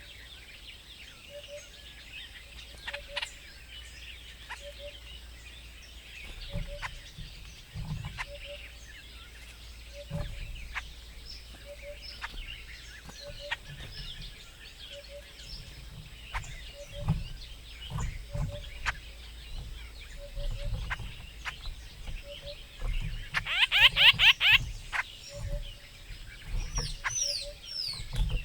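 Birds chirping at a feeder, with sharp ticks, soft low thumps and a soft double note that repeats steadily. About 23 seconds in comes a loud, harsh burst of fast falling notes.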